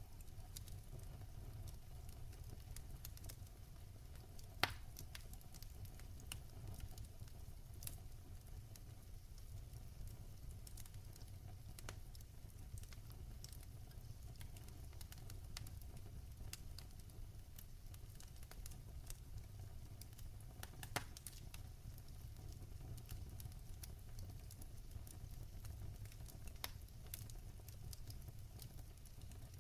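Fire crackling in a fireplace: a steady low rumble with scattered sharp pops and snaps, two of them louder, about four and a half seconds in and about twenty-one seconds in.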